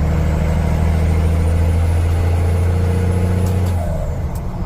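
12-valve Cummins 5.9 inline-six turbodiesel running steadily under power, with a thin high turbo whistle over its deep drone. About four seconds in the engine note drops and the whistle falls away.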